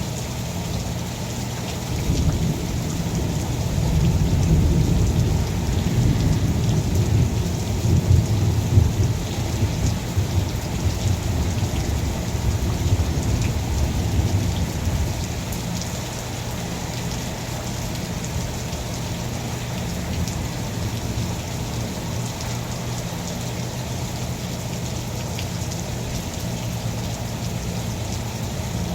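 Steady rain falling, with a long rolling rumble of thunder. The thunder sets in about two seconds in, is loudest a few seconds later and rumbles away by about halfway through, leaving the rain alone.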